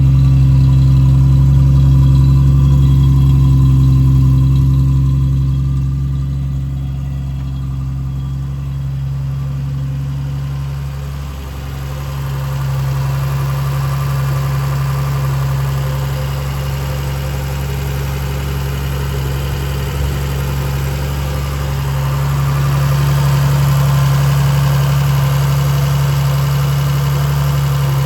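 1970 Triumph TR6's straight-six engine idling steadily while warming up after a cold start; it gets a little quieter partway through and louder again near the end.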